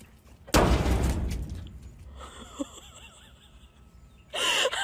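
A sudden loud crash about half a second in, dying away over about a second, then a short loud cry near the end.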